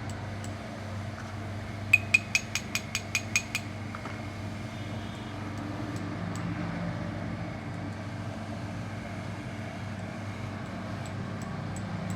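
A metal tool tapping on metal: a rapid run of about nine sharp, ringing clinks about two seconds in, over a steady low mechanical hum.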